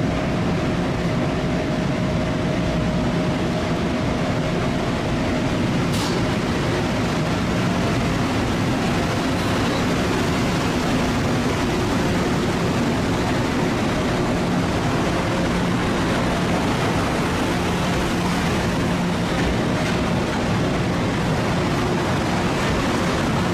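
Long Island Rail Road M3 electric multiple unit pulling out and gathering speed: a steady running noise of traction motors and wheels with several steady hums. A single sharp click about six seconds in.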